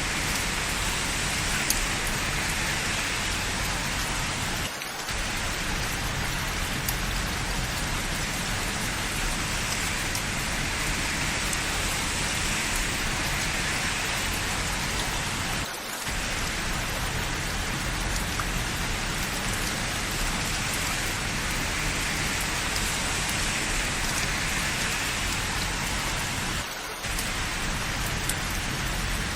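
Steady rain falling and pattering on surfaces, an even hiss with no let-up except three brief dips about eleven seconds apart.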